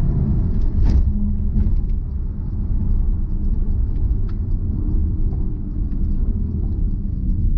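Cabin sound of a Porsche Cayenne Turbo Coupe's twin-turbo V8 being driven hard on a rally stage: a heavy, steady low rumble of engine and road noise, with the engine note shifting up and down, and a few faint clicks.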